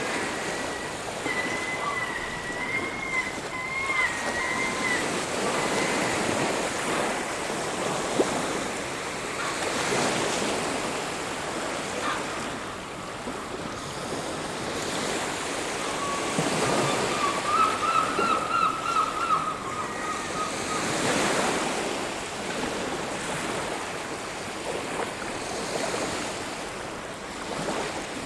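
Surf washing onto a beach, swelling and ebbing every few seconds, with some wind. Faint, long, wavering high tones are heard twice, near the start and about two-thirds of the way through.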